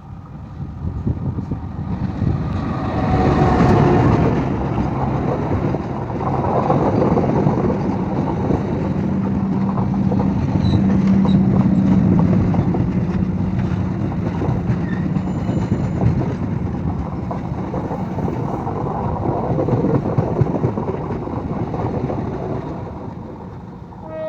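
Diesel-hauled train passing close by: a loud rush and clatter of wheels on the rails that builds about two seconds in and keeps on. A train horn starts right at the end.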